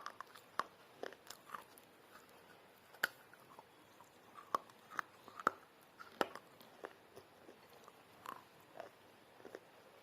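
Close-up biting and chewing of pieces of clay pot: irregular sharp crunches and crackles, several a second, with a few louder crunches in the middle.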